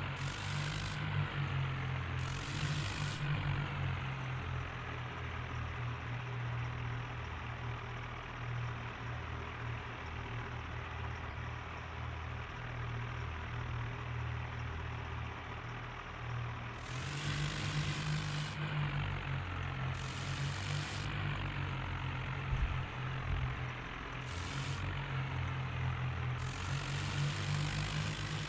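Diesel tractor engine running with a steady low drone, with a few brief surges of louder, hissier noise in the second half.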